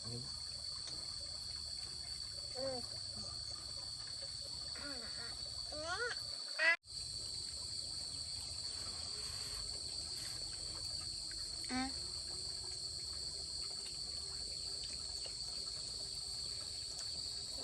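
Steady high-pitched chirring of insects such as crickets, with a few short rising voice-like calls over it and a brief dropout about six and a half seconds in.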